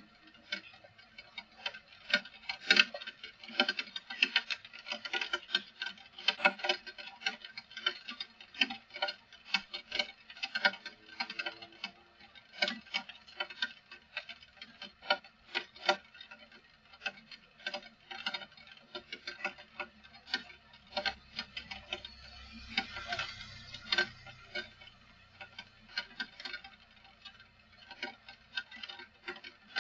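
Rain dripping: irregular taps of water drops falling on a hard surface, several every second, with a brief rush of noise about three-quarters of the way through.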